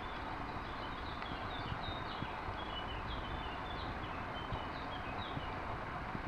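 A small songbird singing in the background, a run of short high chirps repeated over several seconds, over a steady rushing noise of wind and water.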